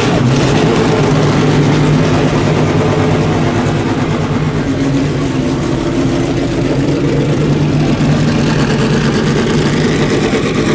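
A car engine idling steadily, a loud, even hum with little change in pitch.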